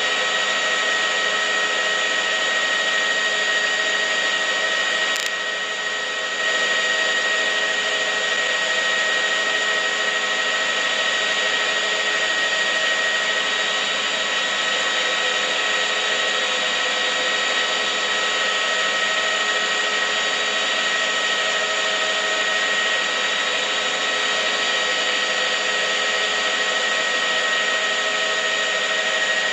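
A steady mechanical whir with several steady whining tones running through it, dipping briefly about five seconds in.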